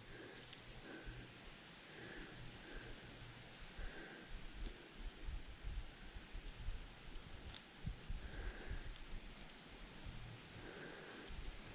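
Crickets trilling steadily at one high, even pitch, with scattered soft low thumps and rustles of handling.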